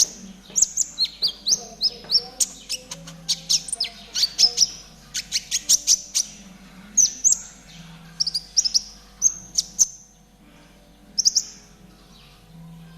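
Konin songbird singing in the trotol style: rapid strings of high, sharp chirps and short down-slurred notes, dense at first, then thinning out to scattered phrases with a brief pause about ten seconds in.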